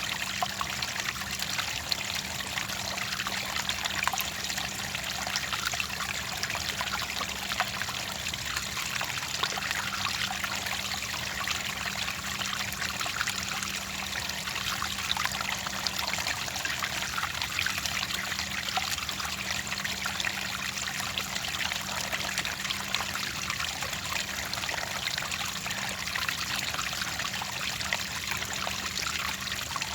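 Clear water trickling and pouring steadily, an even splashing hiss with many small droplet crackles. A faint steady low hum runs underneath.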